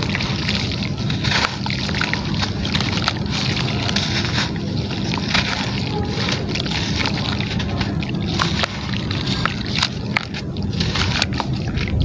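Gritty material crumbling into water: sloshing and small splashes, with many short crackles as the pieces break.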